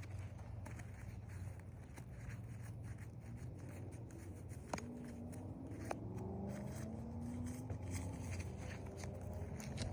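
Light scraping and small clicks of hand work on roof shingles, over a low steady rumble, with two sharper clicks about five and six seconds in.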